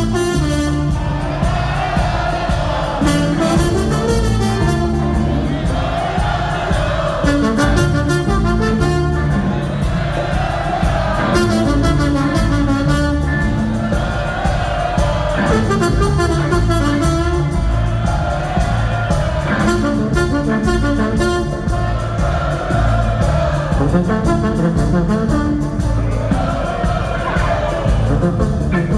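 Live ska-punk band with a horn section playing loud and continuous, brass phrases repeating over drums and bass.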